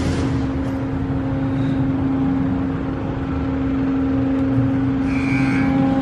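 Car wash machinery running: a steady motor-and-pump hum with a constant low drone over a wash of hissing noise.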